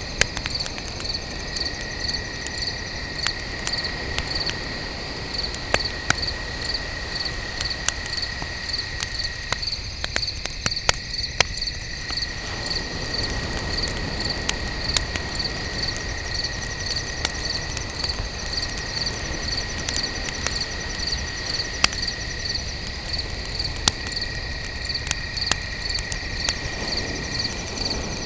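Crickets chirping at night, a high pulsed chirp about twice a second over a second, steadier trill, with a campfire crackling and popping in sharp scattered snaps.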